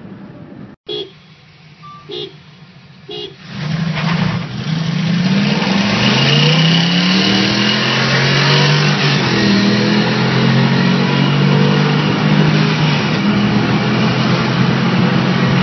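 Three short horn toots about a second apart. Then, from inside the cabin, the 2008 Toyota RAV4 Sport's 3.5-litre V6 accelerates hard, its pitch climbing and dropping back at each upshift.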